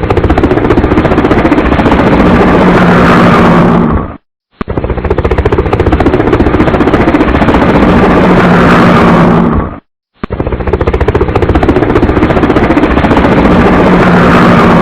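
Helicopter running close by: rapid rotor chop over a steady low engine hum, loud. It comes in three stretches of about five seconds, each cut off abruptly by a short silence.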